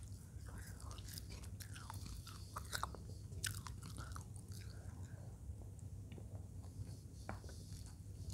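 Close-miked mouth noises of a person chewing a mouthful of fried balado eel and rice, with irregular wet smacks and small crunches.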